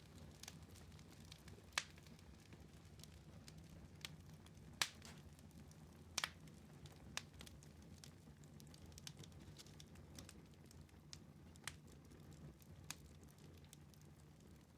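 Wood fire crackling in a fireplace, faint: scattered sharp pops, the loudest about two, five and six seconds in, over a low steady rumble of the flames.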